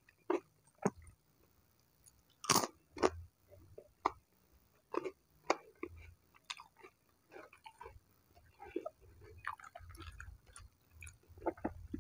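Close-up chewing of battered fried tempeh, with irregular crunches; the loudest crunches come about two and a half and three seconds in.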